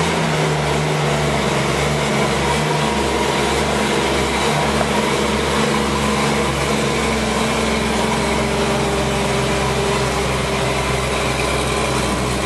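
1968 Toyota Land Cruiser's straight-six gasoline engine idling steadily, just started after sitting for about a year.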